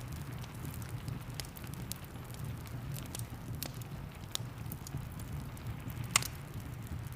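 Wood fire crackling with scattered pops, one sharper pop about six seconds in, over a steady low rumble and a soft hiss of rain.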